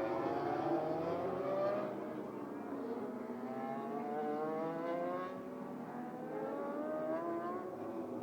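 MotoGP racing motorcycle engines at high revs, several bikes overlapping, their pitch climbing through the gears and dropping at each shift as they pass.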